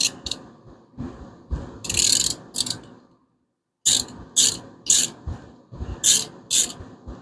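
Hand ratchet wrench clicking in short back-and-forth strokes, with a brief pause about halfway, while bolts on the 5.7 Hemi's valve train are being worked.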